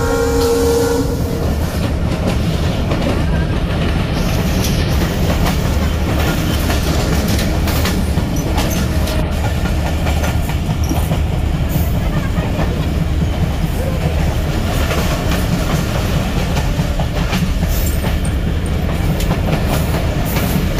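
Passenger train running along the track, heard from the first coach behind the locomotive: a steady rumble of wheels on rail with clicking over the rail joints. The locomotive's multi-tone horn ends about a second in.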